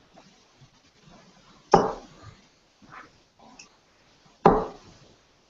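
Two sharp thuds about three seconds apart, each dying away quickly, like darts striking a dartboard, with a few faint knocks between.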